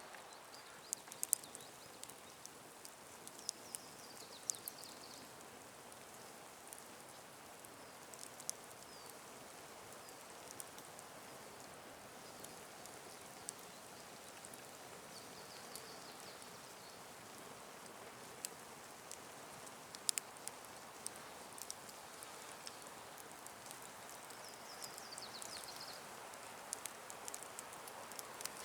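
Wood campfire crackling: sparse sharp snaps and pops over a faint steady background. A bird gives a short high call three times.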